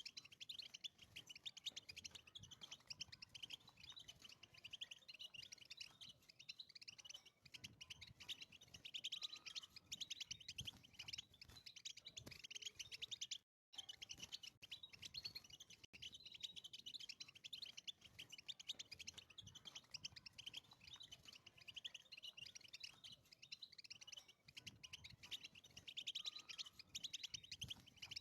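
European goldfinch singing: a long, fast, continuous run of twittering chirps and trills, broken by a momentary gap about halfway through.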